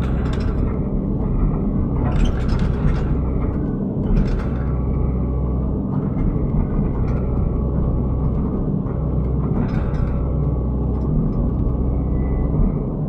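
Excavator's diesel engine running steadily under load as the machine works, with short noisy bursts every few seconds as the arm and bucket move.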